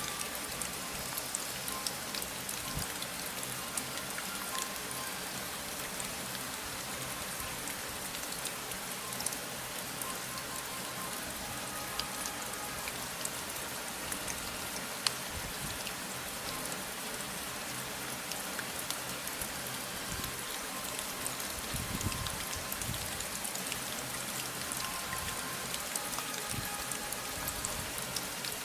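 Steady rain: an even hiss dotted with many separate drop ticks.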